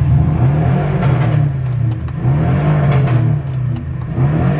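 Car engine revved a few times: the pitch climbs and drops back, with a longer rev in the middle, then another starting near the end.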